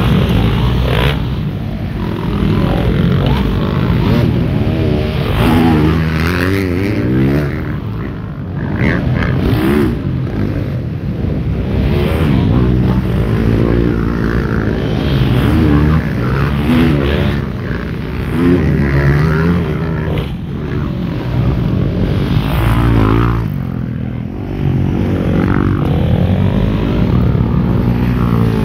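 Motocross bike engines running and revving, their pitch rising and falling again and again.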